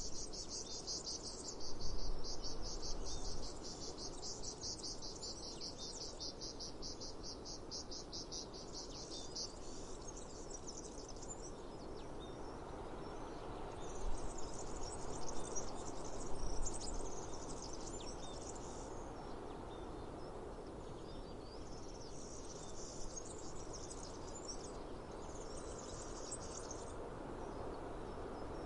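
Cicadas singing: a high, rapidly pulsing buzz that stops about nine seconds in and then returns in shorter patches. Under it runs a steady low background noise that swells twice.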